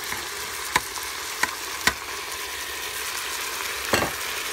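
Chicken, celery, carrots and chili sizzling in the pot of a pressure cooker as they sauté, a steady hiss. A stirring utensil clicks against the pot three times in the first two seconds and knocks once more loudly near the end.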